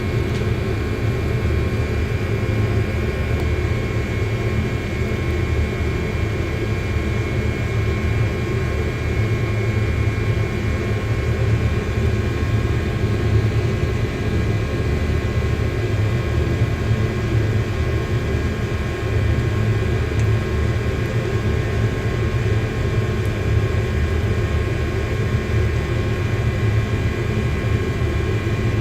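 Machine running: a steady low rumble with a faint steady whine above it.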